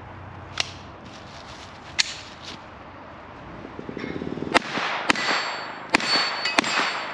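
Pistol shots at a steel star target. Two single shots a second and a half apart, then a quicker string of about five shots from about halfway through, with the steel ringing after the hits.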